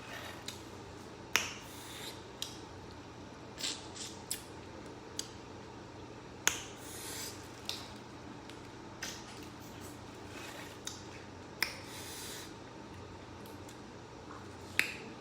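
Boiled seafood shells being cracked and peeled by hand: scattered sharp cracks and snaps, with rustling and rubbing between them. The loudest cracks come about a second in, midway and about two-thirds of the way through.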